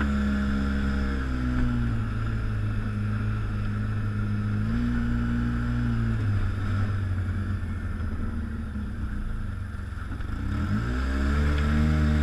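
ATV engine running at low trail speed, its pitch stepping down and up as the throttle is eased off and opened again; it sinks lowest about ten seconds in, then revs back up.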